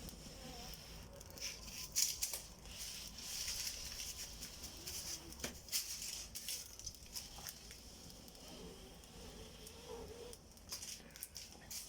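Steel wool rubbed against a mobile phone battery, crackling and fizzing as it shorts the terminals and starts to burn, with irregular sharp crackles and a steady hiss throughout.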